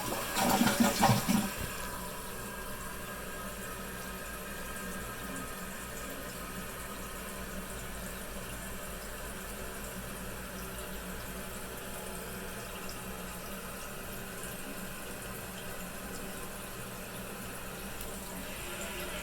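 Jacuzzi Primo toilet tank refilling after a flush: water hissing steadily through the fill valve, after a louder rush of water in the first second or so.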